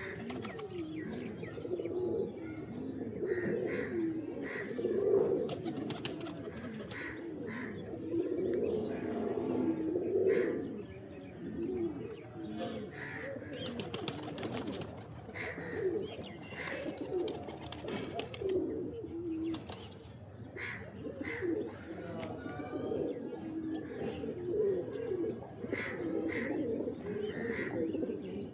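Several pigeons cooing over one another without a break, with short high chirps here and there.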